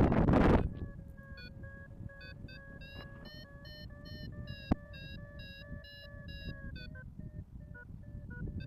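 Paragliding variometer beeping in quick repeated pips, about two to three a second, with the pitch stepping up and down as the climb rate changes, over a low wind rumble. A burst of wind noise on the microphone at the start and a single sharp click about halfway through.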